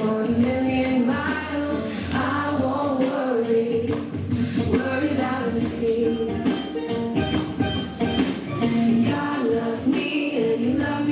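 Voices singing a song over instrumental backing with a steady beat.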